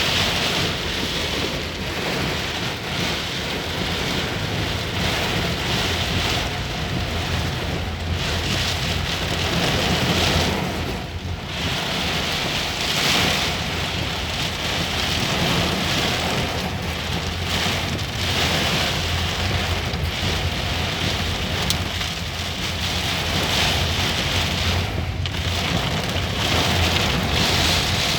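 Heavy rain and strong gusting wind of a storm, a continuous rushing noise that swells and eases every few seconds.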